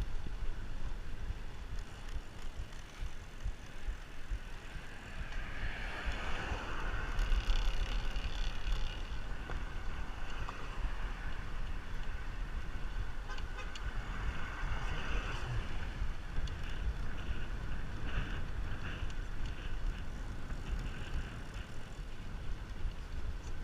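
Wind rushing over the microphone of a camera on a moving bicycle, a steady low rumble, with a louder swell of higher-pitched noise about six to nine seconds in.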